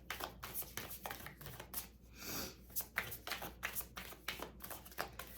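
A deck of tarot cards being shuffled by hand: a run of quick, irregular soft card flicks and slaps, with a short sliding rustle a little past two seconds in.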